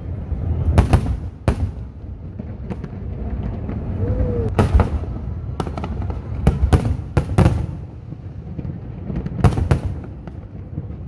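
Aerial fireworks bursting: about a dozen sharp bangs at irregular intervals, several coming in quick pairs, over a continuous low rumble.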